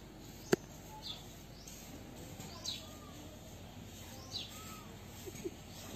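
Birds chirping: a few short, falling calls spaced a second or two apart over steady outdoor background noise, with one sharp click about half a second in.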